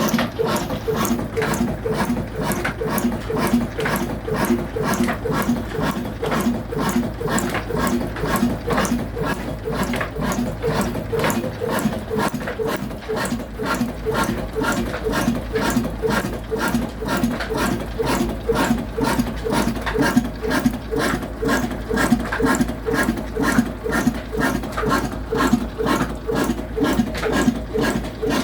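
Slow-speed single-cylinder 22 hp 'black' diesel engine running steadily at about 300 rpm. It fires in an even beat of about two and a half strokes a second over a low hum.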